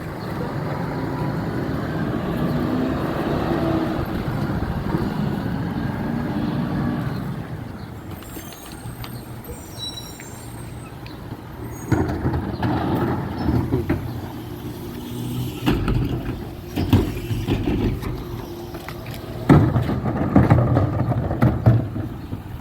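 Garbage truck running: the engine is worked harder for the first several seconds, then drops to a steady idle. From about halfway there are repeated clanks and bangs, with a sharp loud bang near the end.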